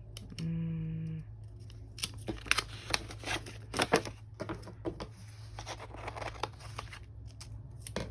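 Scissors snipping through paper, a run of irregular sharp snips with paper rustling in between.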